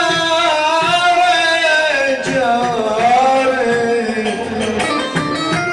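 Live Middle Eastern music: one melodic line slides down in pitch over a steady drone, then returns to the drone note near the end.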